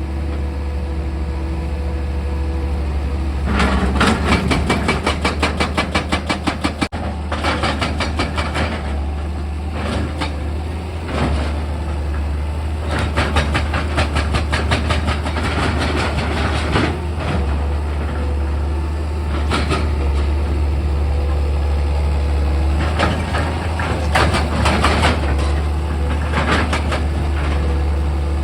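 Heavy machinery's diesel engine running steadily, with several bursts of rapid, rattling clatter over it.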